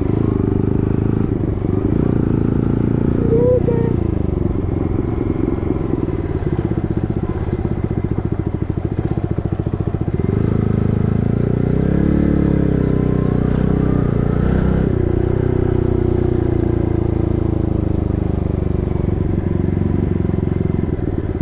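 Yamaha MT-15's single-cylinder engine through an SC Project full-system exhaust while riding, its pitch rising and falling with the throttle and gear changes: a quick rev about three and a half seconds in and a longer rise and fall midway.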